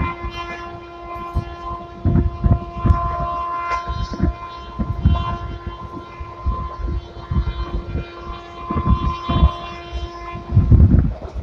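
Passenger train running, with the low rumble and irregular knocks of wheels over the track. Over this a steady, horn-like tone is held and cuts off near the end.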